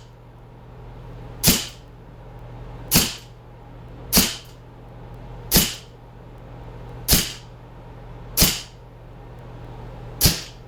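Springfield 1911 replica CO2 air pistol firing seven shots, each a sharp crack, about one every one and a half seconds.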